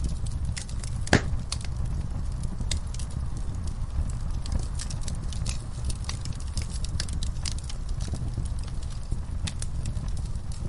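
Wood fire in a fireplace crackling: irregular sharp pops and snaps over a steady low rumble of flame, with one louder pop about a second in.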